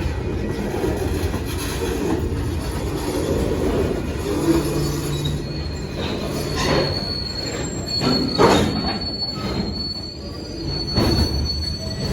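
Train cars rolling past: a steady rumble of wheels on rail, with a thin high wheel squeal setting in about halfway through and a few loud clanks.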